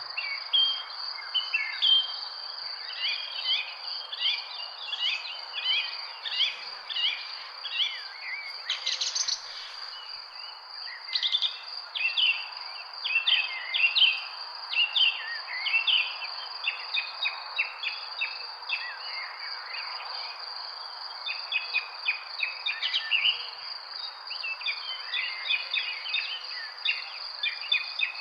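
Several birds chirping and singing in quick overlapping phrases, over a steady unbroken high-pitched insect drone and a soft background hiss.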